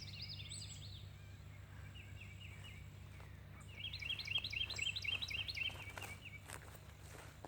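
Small birds chirping in fast runs of short, repeated high notes: one run fades in the first second, and another comes about four seconds in and lasts about two seconds. A steady low hum runs underneath, with a few faint clicks near the end.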